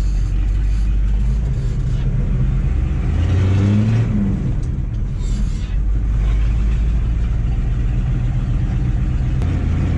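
1985 GMC 3500's 6.2-litre Detroit diesel V8 pulling the truck under acceleration. Its note rises and then falls about four seconds in, then holds steady.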